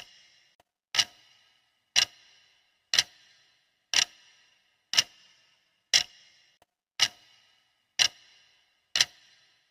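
Clock ticking steadily, one sharp tick every second, each with a short ringing decay.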